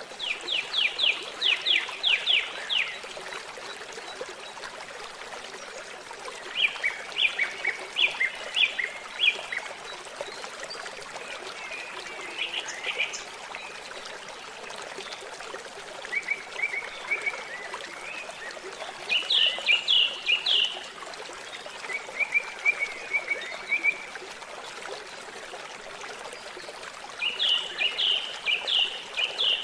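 A songbird singing short trills of rapid high notes, a new phrase every few seconds, over a steady trickle of running water.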